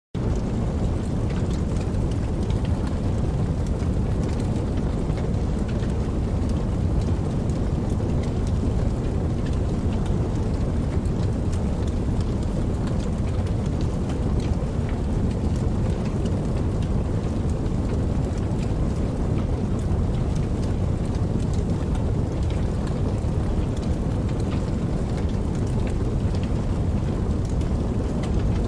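Steady rain falling, a constant hiss with faint scattered drop ticks, starting suddenly at the beginning.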